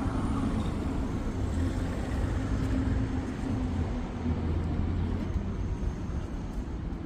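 Road traffic noise with a steady low engine hum from a nearby vehicle running.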